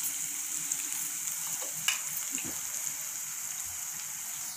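Chopped onions, ginger and garlic frying in oil in a cast-iron pan, a steady high sizzle, with one sharp click about two seconds in.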